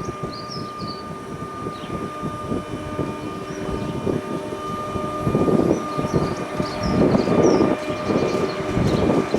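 Train running through the station: a steady high whine over a rumble that grows louder in the second half.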